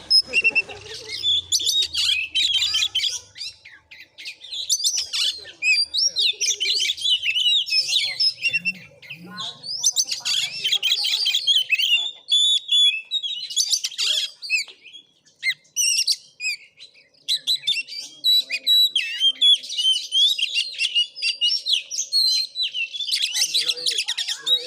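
Oriental magpie-robin singing a fast, varied run of whistles and chattering phrases, pausing briefly about four seconds in and again about fifteen seconds in.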